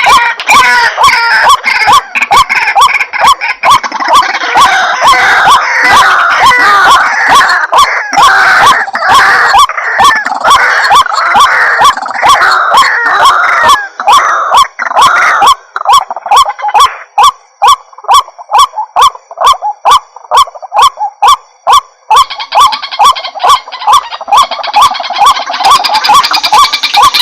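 White-breasted waterhen calling, played from a loud lure recording: a dense run of harsh repeated notes. Past the middle it thins to an even string of about three notes a second, then crowds together again near the end.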